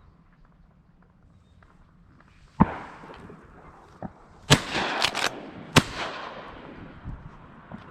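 Shotgun shots during a duck hunt: one sharp report about two and a half seconds in, then a quick string of four more close together about two seconds later, each trailing off in a rolling echo.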